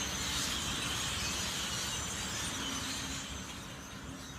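A dense chorus of many birds chirping and chattering at once over a low outdoor rumble, easing off about three seconds in.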